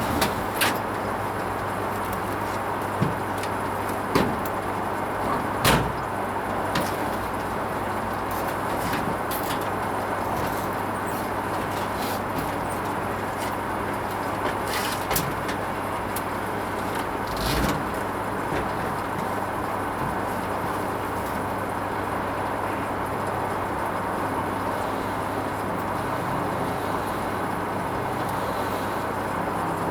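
Hoover Vision HVP16 washing machine running on its Silks 30 gentle cycle: a steady hum and whoosh with a few brief knocks and clicks in the first half.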